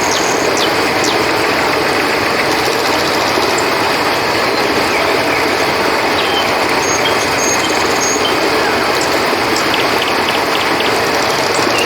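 River water rushing steadily, with crickets trilling high above it and a few short, high chirps scattered through.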